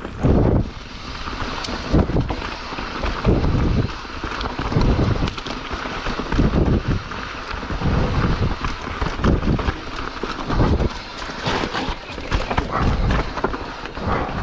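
A mountain biker breathing hard after a steep climb, each breath a rough puff on the microphone, about one every second and a half, over steady wind and trail hiss.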